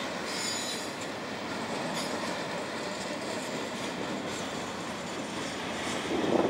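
Florida East Coast Railway double-stack container train rolling past, with a steady rumble of wheels on rail. A brief high squeal from the wheels comes about half a second in.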